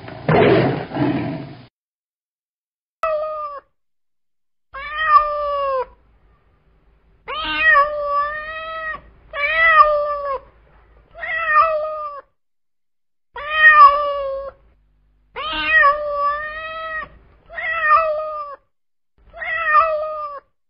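The end of a tiger's roar, followed after a short pause by a domestic cat meowing again and again, about ten meows spaced a second or two apart.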